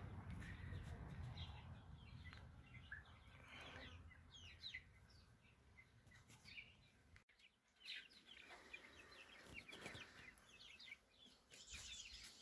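Faint bird calls: many short, quick chirps, with a few louder calls around the middle and near the end.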